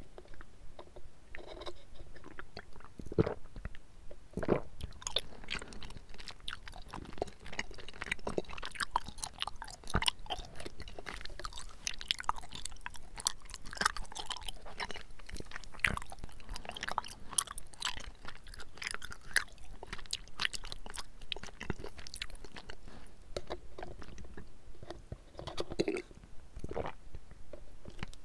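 A person chewing bubble tea tapioca pearls close to the microphone, a steady run of many small sharp mouth clicks.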